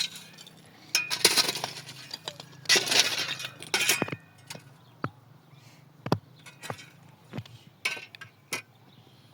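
Hard objects clinking and clattering for the first few seconds, then six separate sharp knocks roughly a second apart.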